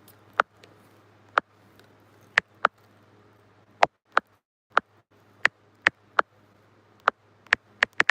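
Close-miked eating: sharp, separate mouth clicks and smacks while chewing, coming irregularly about one or two a second.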